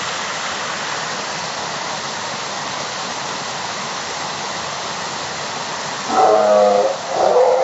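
Waterfall rushing steadily. About six seconds in, a long, held pitched call sounds over it, followed by another.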